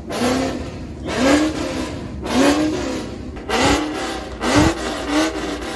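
A vehicle engine being revved in short blips, about once a second, its pitch rising and dropping back each time.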